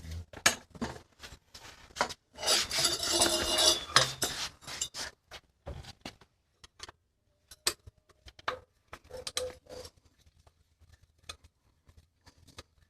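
Hand tools and mountain bike parts being worked: scattered clicks and knocks, with a loud scraping rasp about two seconds in that lasts nearly two seconds, and a few short squeaks near the end.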